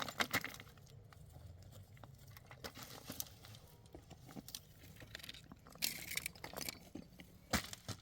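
Dry wood and twigs crackling and snapping irregularly, with rustling and a few louder snaps near the end.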